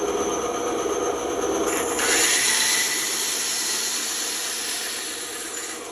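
Band saw running with a steady motor hum; about two seconds in, the blade bites into the wood and a loud, hissing cutting noise sets in, easing off near the end.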